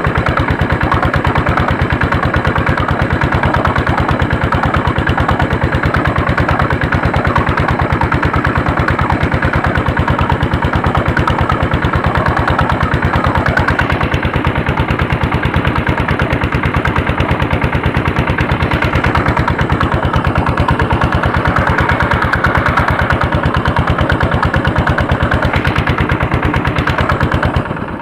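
A tractor's Andoria diesel engine running steadily under load while pulling a harrow, each firing stroke heard as a rapid, even beat. The level drops a little just before the end.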